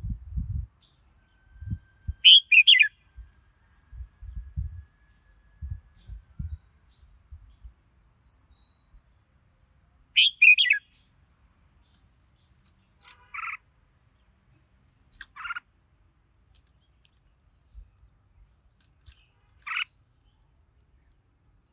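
Red-whiskered bulbul singing in short phrases: two loud bursts about two and ten seconds in, then three shorter calls a few seconds apart. Low dull thumps sound now and then during the first several seconds.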